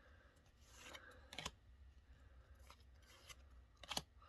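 Pokémon trading cards being paged through: faint sliding and rubbing of card stock with a few sharp flicks, one about a second and a half in and another near the end.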